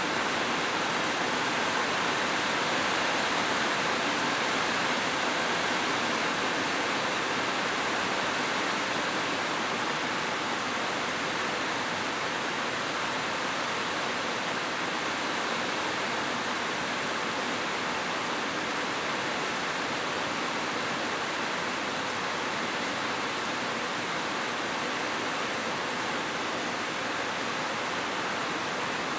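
Heavy rain falling steadily as an even, unbroken hiss, with no single drops standing out.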